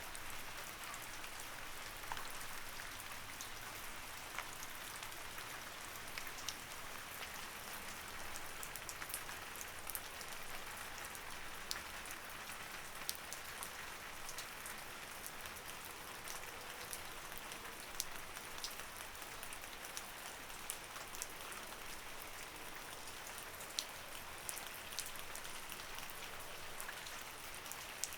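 Light rain falling steadily, a soft even hiss with scattered distinct drops ticking on a surface.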